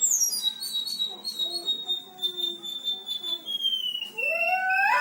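Selendang biru songbird singing in full voice: one long, high, steady whistle that slowly drops in pitch after about three and a half seconds, with short high notes over it and a rising call near the end.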